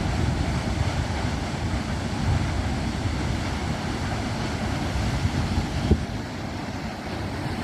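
Düden waterfall's falling water roaring, a heavy low rumble, with wind buffeting the microphone. A brief knock about six seconds in.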